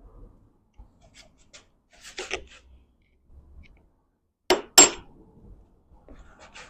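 Metal tool work on a transmission counter nut: light clinks and scrapes, then two sharp ringing metal-on-metal strikes about a third of a second apart, in keeping with a hammer driving a punch against the staked nut.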